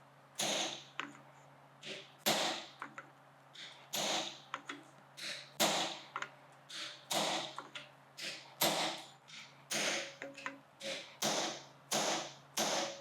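Hand hammer striking a hand chisel driven into hot steel on an anvil, hot-splitting a bar, at a steady rhythm of about two blows a second, each blow with a short ring.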